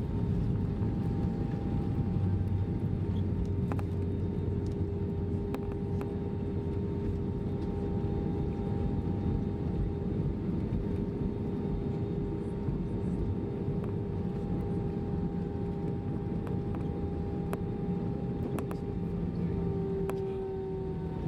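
Cabin sound of an Airbus A320 taxiing after landing: a steady low rumble with a constant whine from the idling jet engines, the whine dipping slightly in pitch near the end, and occasional light cabin rattles.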